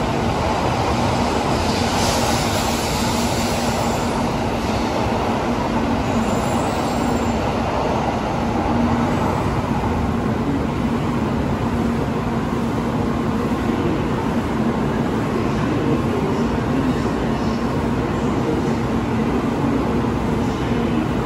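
Tokaido Shinkansen train at the platform: a steady, even running noise with a low constant hum, holding level without rising or falling.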